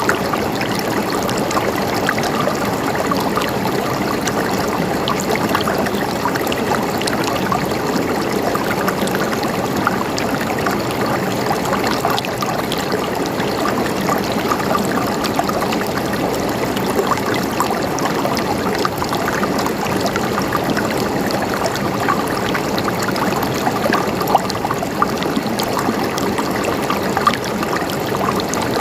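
River water flowing and babbling steadily over rocks, with small splashes and gurgles throughout.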